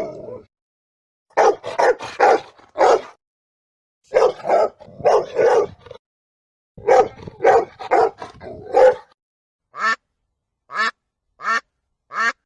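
A dog barking in quick runs of short barks. Near the end come four short, separate calls, each falling in pitch.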